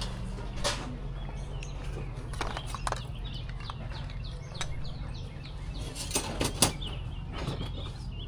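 Rustling and scattered light knocks of items being handled, the loudest knocks coming about six seconds in, over a steady low hum.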